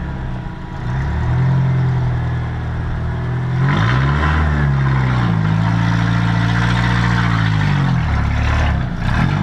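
Off-road rig's engine revving hard under load on a rock-ledge climb, the revs rising and falling several times, with a dip about four seconds in and another near the end.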